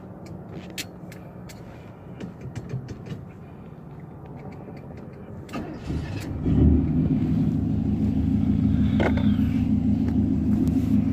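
1973 Chevrolet Impala's V8 starting about six seconds in on freshly fitted AC Delco Rapidfire spark plugs, then idling steadily through Flowmaster mufflers. A few light clicks come before it starts.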